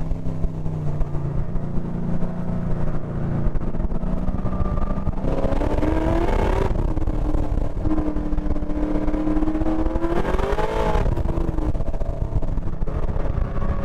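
LS7 V8 engine heard onboard, running at low revs and then rising in pitch twice under throttle, around six seconds in and again near eleven seconds, each time falling off sharply.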